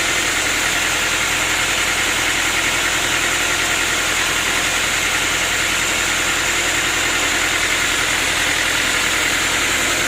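Sawmill machinery running steadily: a constant motor hum under an even high hiss, with no rise or fall.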